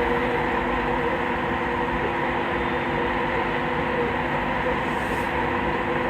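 Train standing at the platform, its electrical equipment and fans giving a steady hum with several steady tones over a constant rush of noise.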